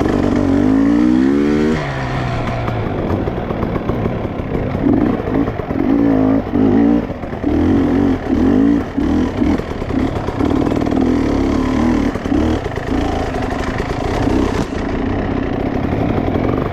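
Dirt bike engine revving up and down again and again, its pitch rising and falling as the throttle is opened and closed.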